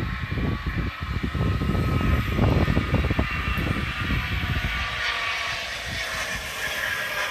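Wind buffeting the phone microphone in irregular low gusts over a steady outdoor hiss.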